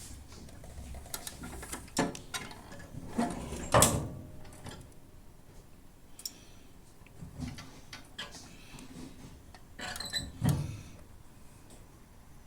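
Scattered knocks and clatters of tools and the lawn mower being handled during an oil change, loudest just before 4 s and again around 10 s.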